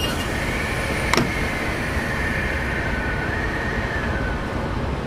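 Train noise at a station: a steady noise with a faint high squeal that holds for about four seconds and then dies away, and a single sharp click about a second in.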